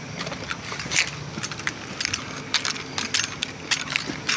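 Irregular light jingling and clicking, several times a second, as of small metal objects such as keys jostling.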